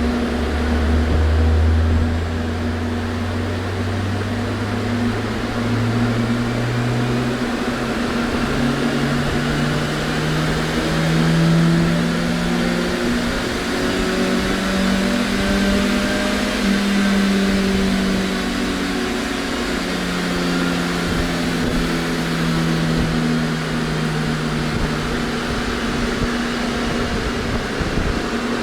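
Car engine on a chassis dynamometer during a power run: the revs climb steadily for about twelve seconds, hold high, then drop away near the end. A steady hum runs underneath.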